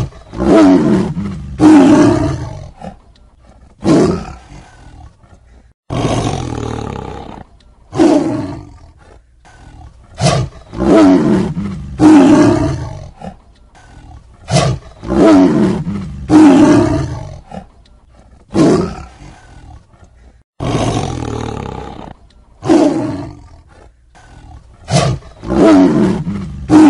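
Tiger roaring and snarling again and again: loud roars, each one to two seconds long, with short pauses between.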